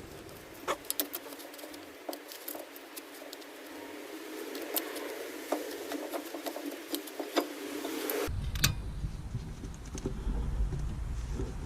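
Scattered light metallic clicks and clatter, like tools and brake parts being handled. About eight seconds in the sound cuts abruptly to a steady low rumble with a few more clicks.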